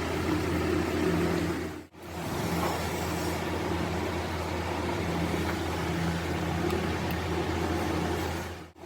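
Machinery running with a steady drone and low hum, cutting out briefly about two seconds in.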